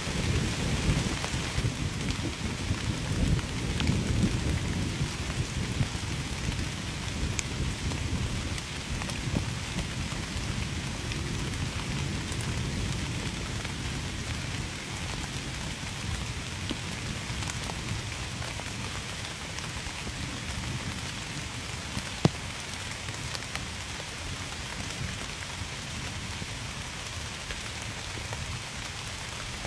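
Heavy rain falling steadily, with a low rumble of distant thunder that is strongest in the first several seconds and then fades. Scattered drops tick throughout, one sharper tap about three-quarters of the way through.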